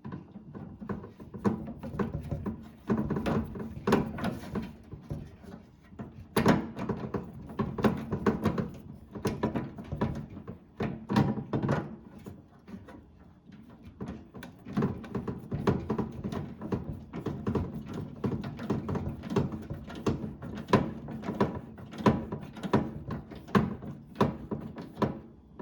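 Hand tools and parts handled against a microwave's metal and plastic housing while screws are driven in to fasten a door switch assembly: irregular clicks, taps and knocks in clusters, with short quieter pauses.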